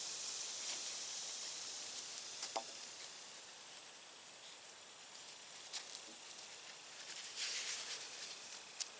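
Faint outdoor ambience: a steady high hiss that fades over the first few seconds, scattered small ticks and clicks, and a short rustle about seven seconds in.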